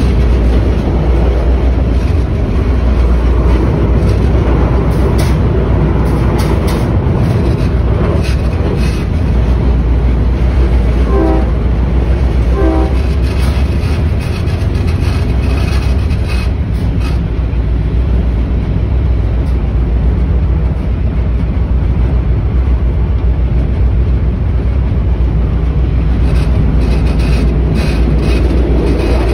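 Commuter train running along the track, heard from the cab: a steady low rumble with clusters of clicking from the wheels over the rails. Two short tones sound about a second and a half apart near the middle.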